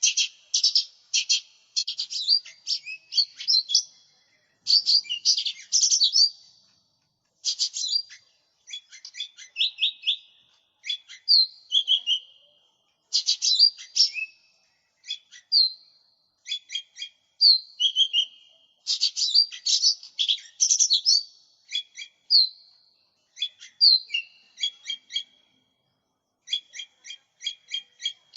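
Lesser green leafbird (cucak ijo mini) singing continuously in rapid, chattering phrases of quick repeated notes and short sliding whistles, broken by brief pauses.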